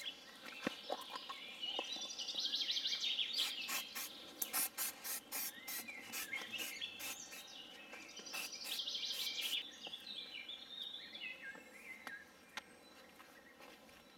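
Songbirds singing in warbling phrases, with a quick run of sharp clicking notes in the middle; the song gets quieter near the end.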